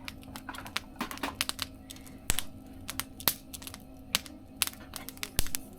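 A wood fire crackling in a mesh fire-pit stove: irregular sharp snaps and pops, a few louder than the rest, over a faint steady hum.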